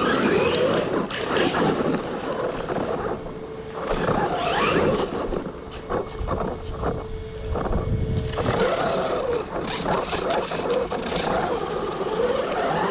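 ARRMA Talion 6S RC car's brushless electric motor whining up and down in pitch with the throttle several times, holding a steady whine for a few seconds in the middle. Scattered short clicks and crunches run through it.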